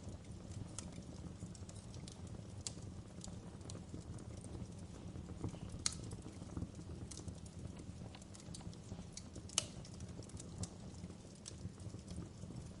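Wood fire crackling in a fireplace: irregular sharp pops and snaps over a low, steady rumble of burning, with two louder pops, one about halfway through and one a few seconds later.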